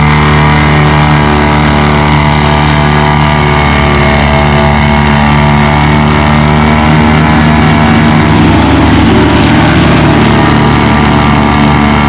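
A tractor engine running hard and steadily under load while pulling a weight sled.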